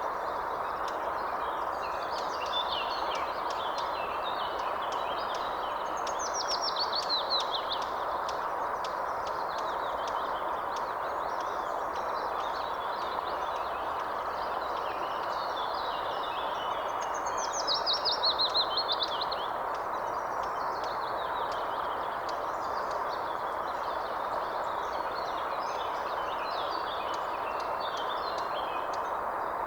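Several birds chirping and singing over a steady rushing background noise. Twice, about a quarter of the way in and again past halfway, a louder bird song phrase of fast repeated notes stands out.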